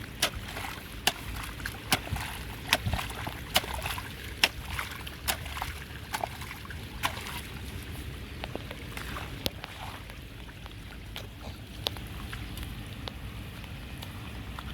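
Water sloshing and splashing at a clogged street drain, with many sharp irregular splashes over a steady rush of water. The splashes come thickly at first and thin out about halfway through.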